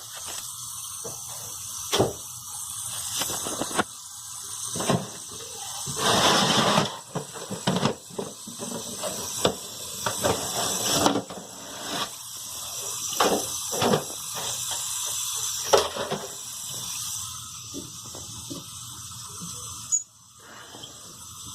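High squealing hiss, the kind an old toilet fill valve makes while water runs into the tank, with scattered knocks and clunks of handling. The tank had been running and not refilling properly, the fault that the valve is being replaced for.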